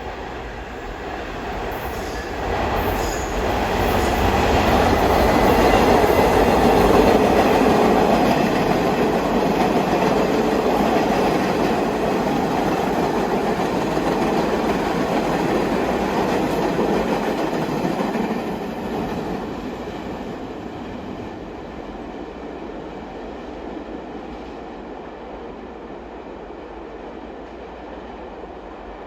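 New York City subway train running along the tracks, the rumble and wheel noise building over the first few seconds, staying strong, then fading away from about 18 seconds in.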